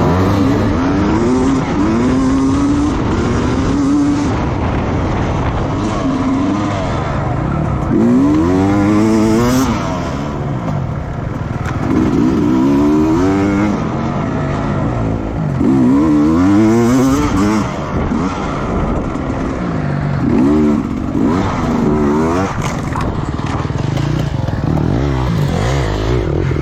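Racing motorcycle engines accelerating hard, several times climbing in pitch and then dropping back.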